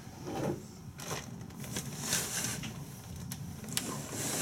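Rain falling in a thunderstorm: an irregular patter with a few sharp clicks and short hissing swells.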